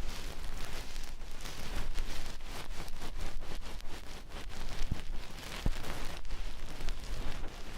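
Ear-cleaning tools scratching and rubbing close to the microphone: a dense, irregular crackling rustle with a few sharper clicks in the second half.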